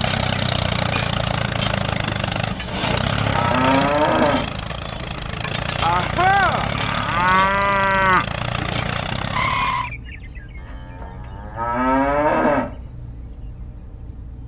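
Cows mooing several times over a tractor engine running steadily, which stops about ten seconds in.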